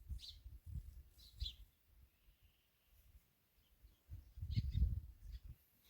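A few short, high bird chirps over low rumbling noise, the rumble loudest about four and a half seconds in.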